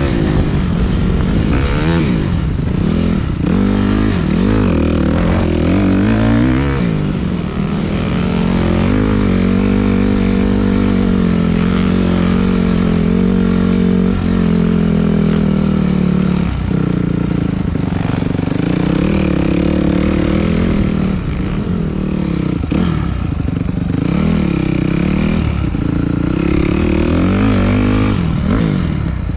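Dirt bike engine running under way, its pitch rising and falling over and over as the throttle is opened and closed, held fairly steady for a while in the middle with a brief drop about two thirds of the way through.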